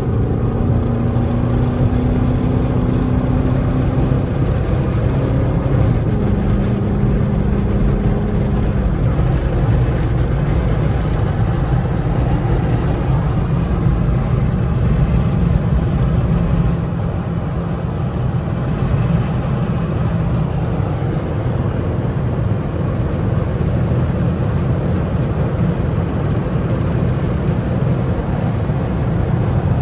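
Straight-piped Chrysler 300C Hemi V8 running under way, its exhaust drone holding a steady low note, easing off briefly about 17 seconds in.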